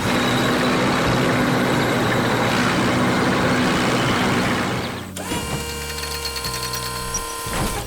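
Heavy construction machinery sound effects: a steady, hissing machine noise for about five seconds, which changes abruptly to a quieter mechanical whirring with rapid ratchet-like clicking.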